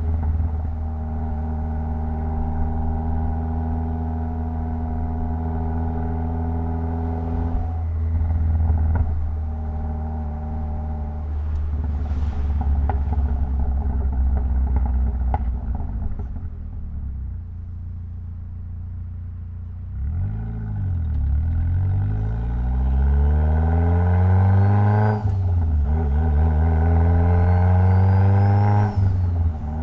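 Mitsubishi Lancer Evolution X's turbocharged four-cylinder engine running at a steady pitch for several seconds, easing off, then accelerating in two rising pulls with a gear change between them, dropping off suddenly near the end.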